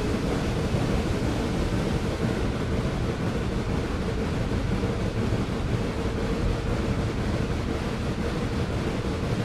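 Steady low rumble of a moving train with wind noise on the microphone.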